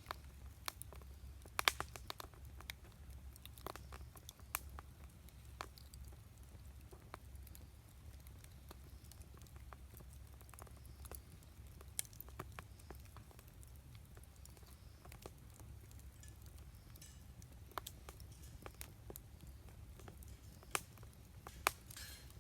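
Wood campfire crackling: irregular sharp pops and snaps, a few louder ones about two seconds in and near the end, over a steady low rumble.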